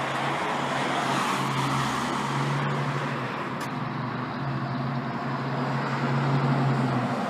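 Road traffic: a motor vehicle's steady low engine hum with tyre and road noise that swells about a second in.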